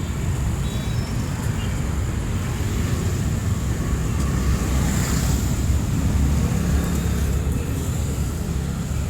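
City street traffic noise: a steady low rumble of engines and tyres, swelling as a vehicle passes about halfway through.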